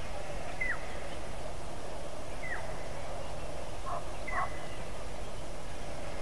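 Wild birds calling: three short whistles that drop in pitch, spaced about two seconds apart, with a brief lower warble alongside the last one, over a steady rushing background.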